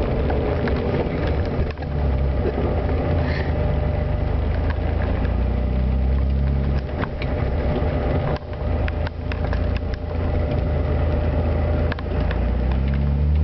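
Porsche 911 SC's air-cooled flat-six running under load, heard from inside the cabin. The engine note dips briefly several times and rises in pitch near the end as the car accelerates.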